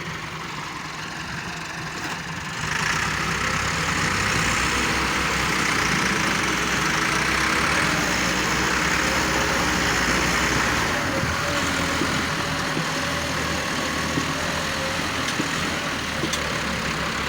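Loader tractor's engine running steadily, getting louder about three seconds in and easing off a little around eleven seconds.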